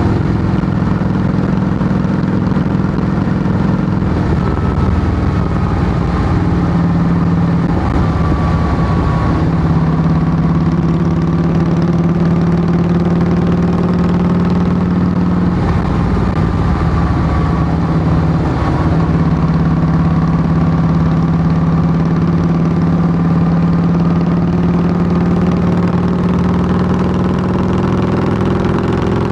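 2008 Harley-Davidson Heritage Softail Classic's V-twin running steadily through Samson fishtail true-dual exhaust pipes, its pitch drifting slightly up and down a few times.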